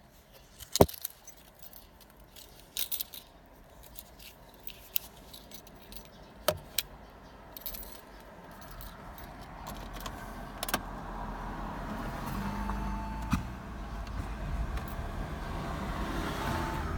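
Keys jangling and sharp clicks inside a car, then a low engine and road rumble building from about eight seconds in as the Audi A3 sedan gets moving.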